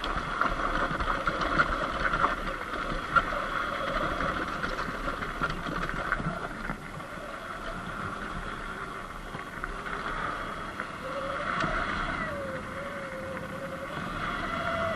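Sur-Ron X Light Bee electric dirt bike under way: the electric motor and chain drive whine steadily, the pitch rising and falling with speed in the second half, over low wind rumble on the microphone.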